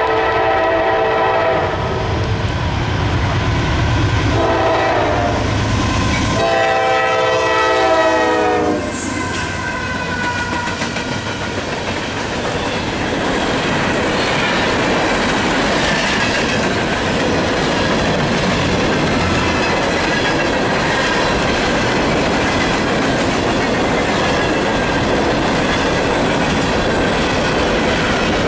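Norfolk Southern freight train passing close by. Two GE diesel locomotives rumble past as their air horn sounds three chords: two short blasts, then a longer one ending about 8 s in. After that a steady rumble and clatter of hopper car wheels rolling over the rails.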